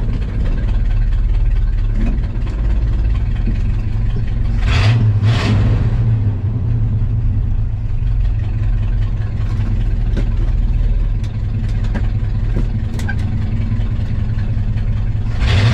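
1985 Ford F250 pickup's engine running, swelling louder about five seconds in and again near the end.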